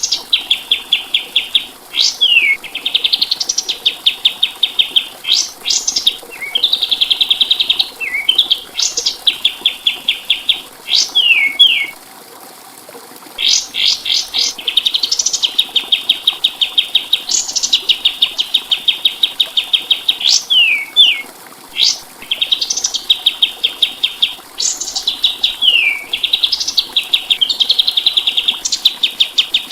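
Kapas tembak songbird singing: fast trills broken by sharp, quick up-and-down whistled notes, phrase after phrase, with one short pause about twelve seconds in.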